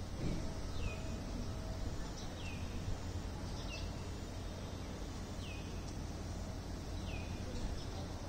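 Outdoor morning ambience. A bird repeats a short, high, falling call about every one and a half seconds over a steady low rumble.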